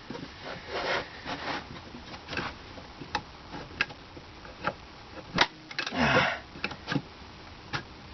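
Hand work on wooden boards: scattered light knocks and clicks with bouts of rubbing and rustling, the longest rustle about six seconds in.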